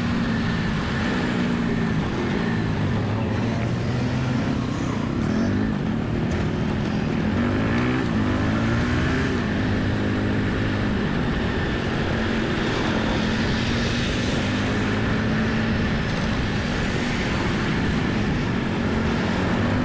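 Motorcycle engine running on the move, its pitch rising and falling several times as the speed changes, over a steady rush of road and wind noise.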